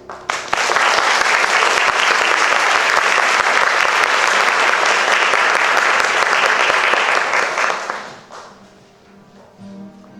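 Audience applauding, starting as the held final chord stops and fading out after about eight seconds. Soft music begins again near the end.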